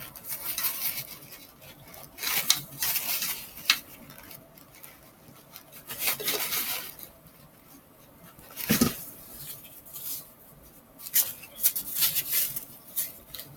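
Close-miked chewing and wet mouth sounds of a person eating a rice-filled soft tortilla burrito, coming in bursts every couple of seconds.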